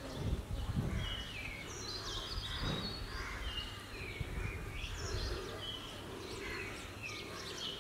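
Small birds calling: many short whistled notes that step up and down in pitch, over a low steady outdoor rumble.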